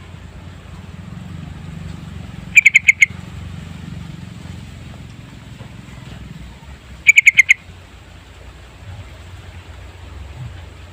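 Sooty-headed bulbul (trucukan) calling: two quick bubbling phrases of about five notes each, a few seconds apart, over a steady low hum.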